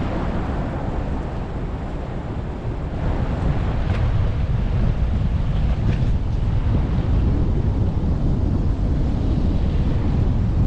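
Wind buffeting an action camera's microphone while cycling: a steady, loud low rumble of rushing air.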